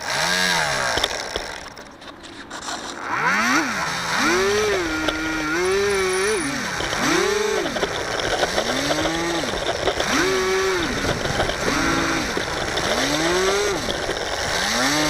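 Electric motor and propeller of a HobbyZone Firebird Delta Ray RC plane whining up and down in repeated throttle surges, about eight or nine times, the pitch rising, holding briefly and falling each time.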